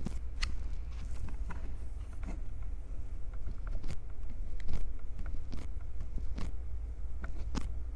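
Hands gripping, rubbing and squeezing right on a Tascam recorder's microphones: irregular soft clicks and crackles, roughly one or two a second, over a steady low rumble of handling noise.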